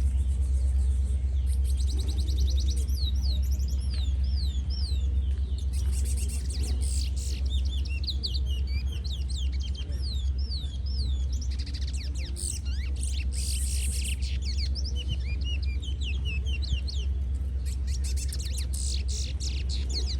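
Many small caged birds chirping at once: quick overlapping chirps that rise and fall in pitch, coming in thicker spells, over a steady low rumble.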